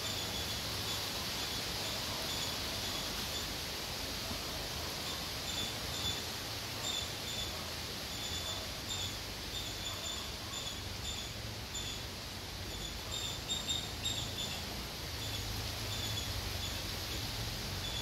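Outdoor ambience: a bird repeating short, high chirps in little clusters over a steady background hiss and a faint low hum.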